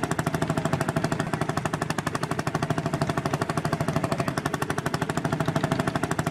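Tractor engine running with a rapid, even thumping beat that holds steady throughout.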